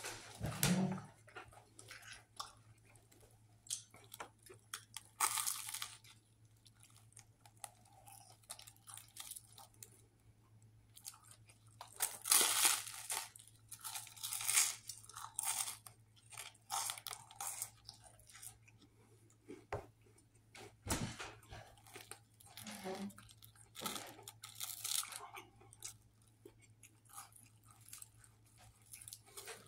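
A person biting and chewing a crusty sandwich close to the microphone: irregular crunching and chewing noises coming in bursts, with the loudest run of crunching around the middle, over a faint steady low hum.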